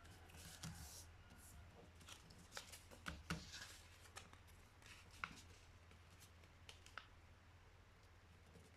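A sheet of printer paper being handled and folded by hand: faint, scattered rustles and small crisp taps, a cluster of them about three seconds in, over a low steady hum.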